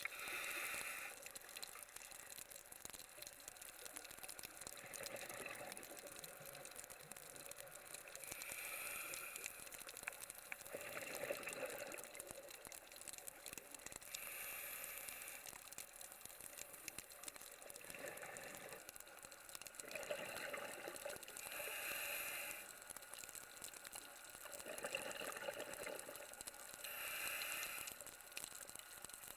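Scuba diver breathing through a regulator underwater: a hissing inhale alternates with a rush of exhaled bubbles, about five breaths, one every six seconds or so.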